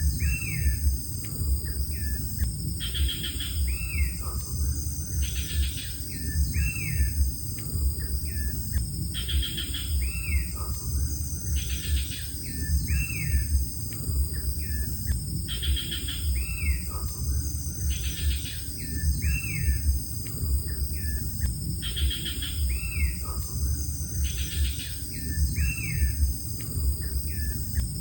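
A bird calling the same phrase over and over, about every three seconds: a short buzzy trill followed by a few looping whistles. Behind it runs a steady high insect drone and a low rumble.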